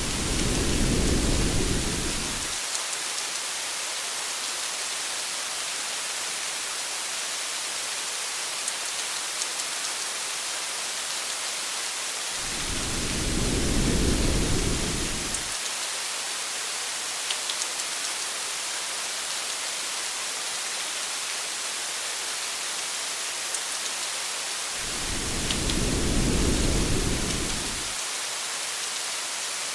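Steady rain falling on a car, a constant hiss with scattered faint drop ticks. A low rumble of thunder swells and fades three times, each lasting about three seconds, about twelve seconds apart.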